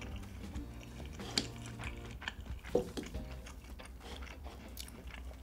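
A person chewing a mouthful of budae-jjigae, with scattered light clicks of chopsticks against a bowl, the sharpest click near the middle.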